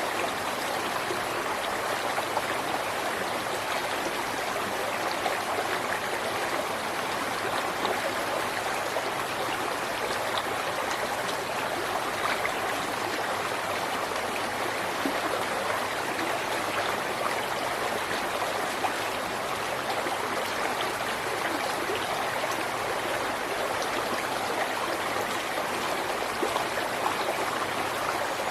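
River water flowing steadily over rocks: a continuous rushing with small splashes and trickles.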